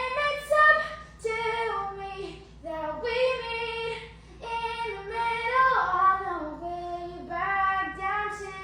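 A male singer's high voice singing unaccompanied, holding notes and stepping down through short melodic runs.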